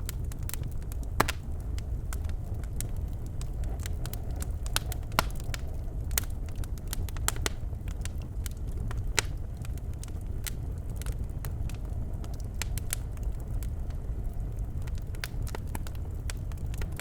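Birchwood burning in a fireplace: a steady low rumble of the fire with irregular sharp crackles and pops, a few of them louder than the rest.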